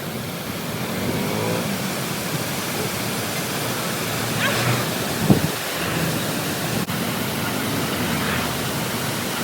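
Steady rushing noise of a large waterfall's falling water. Faint voices come through near the middle, and a short thump about five seconds in is the loudest moment.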